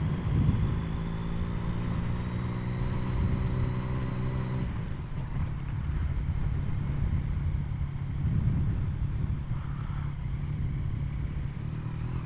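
Yamaha MT-09's three-cylinder engine through an Akrapovic carbon full exhaust, running at a steady low speed while ridden. About five seconds in, the steady engine note drops away, leaving a rougher low rumble.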